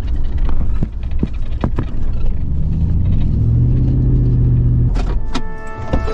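Pickup truck driving: a heavy low road rumble, with the engine pitch rising as it accelerates about halfway through and dropping away near the end, and scattered short rattles and clicks.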